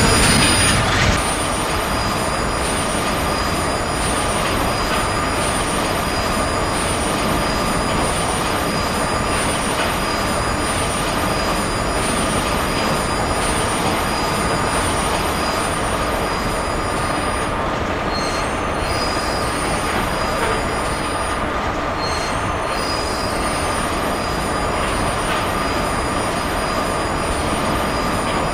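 Steady running noise of an ICE high-speed train on the track, an even rumble and hiss with thin steady high-pitched tones over it, a little louder for the first second.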